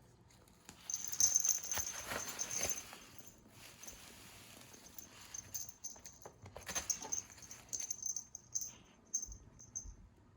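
Cat toy rustling and rattling as it is shaken for a cat to chase. It comes in two bursts of scuffling and clicks, one about a second in and a shorter one past the middle, and then quietens.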